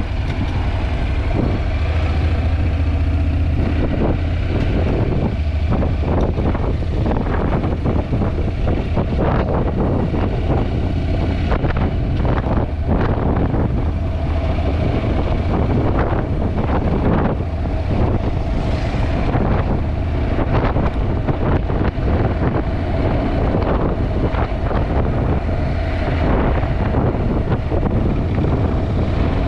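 Wind buffeting the microphone of a GoPro on a moving Honda NC750X motorcycle: a loud, steady, gusty rumble, with the motorcycle running underneath it.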